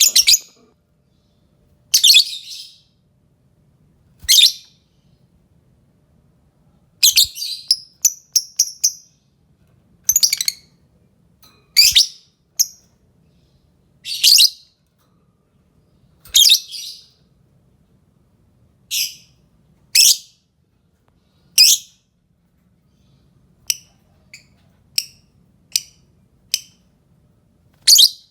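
Green Fischer's lovebird calling: short, sharp, high-pitched shrieks repeated every second or two. There is a quick run of short notes about eight seconds in, and shorter, softer chips near the end.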